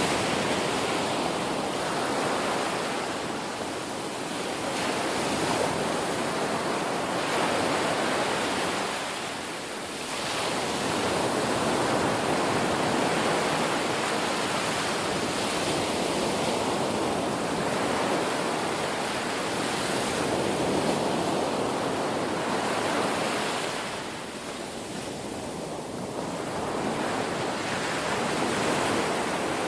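Ocean waves breaking and washing on a shore: a continuous rush of surf that swells and eases, dropping back briefly about ten seconds in and again near the end.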